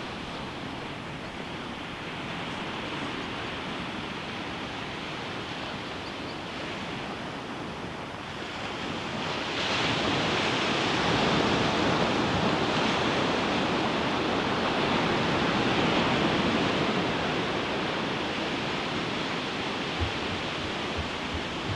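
Ocean surf breaking on a beach: a steady wash of waves that grows louder about ten seconds in as a bigger wave breaks, then slowly eases.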